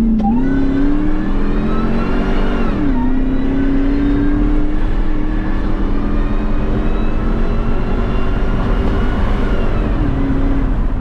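2003 Ford Lightning's supercharged 5.4-litre V8 making a full-throttle pull on a chassis dyno. The engine pitch climbs, drops at an automatic upshift about three seconds in, then climbs steadily again before falling away near the end as the throttle closes.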